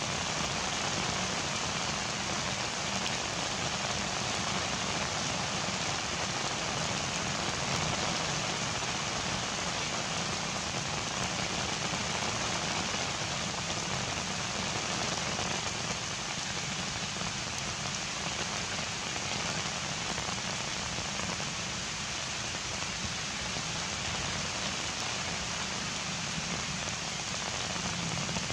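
Heavy rain falling steadily and pattering on surfaces.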